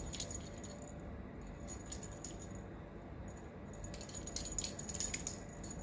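Faint, intermittent light metallic jingling and rattling of a cat toy being played with, a little busier near the start and the end.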